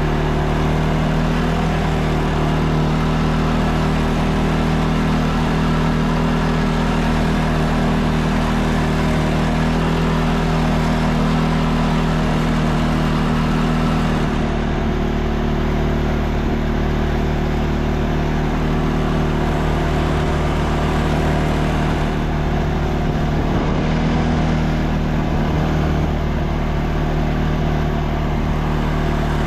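ATV engine running steadily while the machine drives on through deep snow, its note shifting slightly about halfway through.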